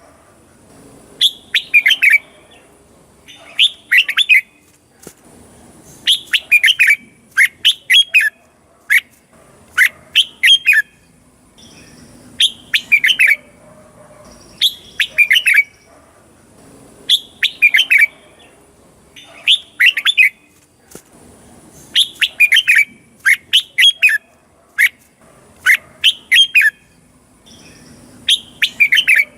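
Red-whiskered bulbul singing: short, loud phrases of quick falling whistled notes, a phrase every couple of seconds.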